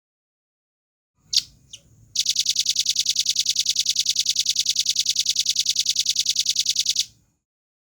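Velvet-fronted nuthatch calling: two sharp high notes, then a fast, even trill of rapidly repeated high notes, about ten a second, lasting about five seconds before stopping abruptly.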